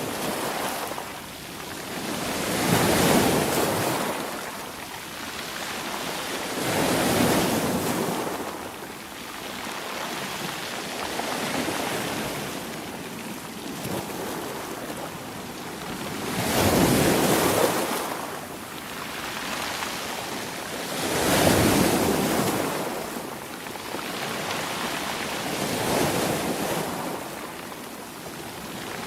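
Sea waves surging and washing in, swelling and fading about every four to five seconds.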